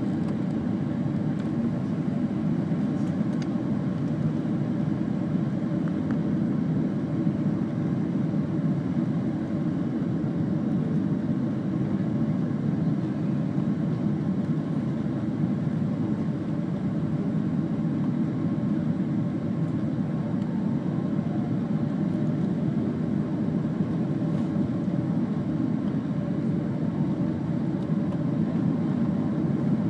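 Steady cabin noise inside a jet airliner in flight: an even, low rumble of engines and airflow, with faint steady tones above it.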